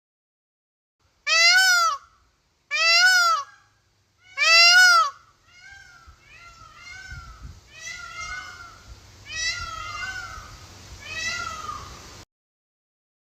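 A series of meow-like animal calls, each rising then falling in pitch: three loud separate calls, then, over a noisier background, about six fainter ones, cut off suddenly near the end.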